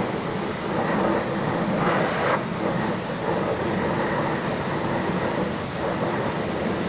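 High-pressure washer spraying water, a steady rushing hiss that swells briefly about two seconds in.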